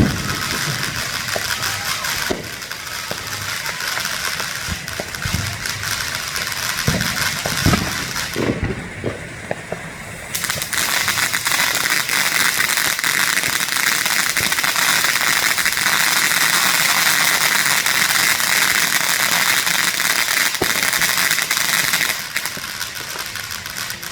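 Consumer fireworks going off: scattered pops and bangs, then from about ten seconds in a loud, dense crackling that runs for some twelve seconds before easing off.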